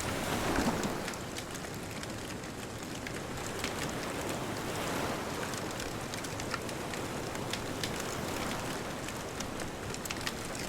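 Bonfire crackling with scattered sharp pops over the steady wash of distant ocean waves, a wave swelling about half a second in and again around five seconds in.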